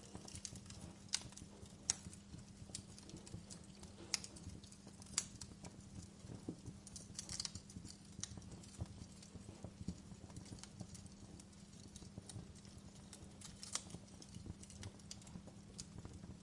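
Wood fire in a fireplace crackling: irregular sharp pops and snaps over a low, steady rumble of the burning fire.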